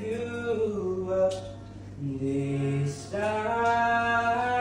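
A person singing long held notes with no instruments, ending on one long sustained note.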